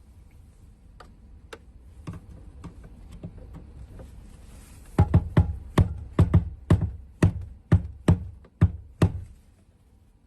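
Sharp knocks, about a dozen at an uneven two to three a second, starting about halfway in, from tapping a fuel pump's locking ring round to lock the pump into the fuel tank. A few faint clicks come before them.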